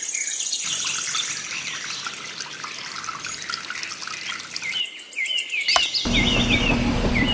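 Birds chirping, with small crackling and trickling sounds through the middle. About six seconds in, a small motor starts a steady hum.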